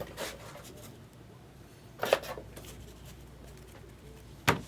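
Trading cards being handled and flipped through, with short sharp slaps of cards being set down, the loudest about two seconds in and another near the end.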